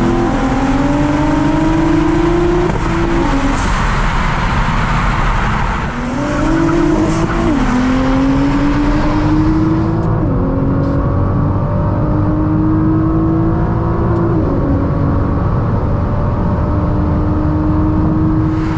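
Turbocharged sports car engine accelerating hard through the gears: the note climbs steadily in each gear and drops at each upshift, about every three to four seconds, with the later gears climbing more slowly.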